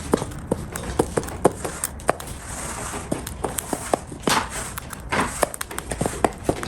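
A cockatiel eating: a run of irregular, sharp clicks and crunches from its beak working the food, with two brief rustles about four and five seconds in.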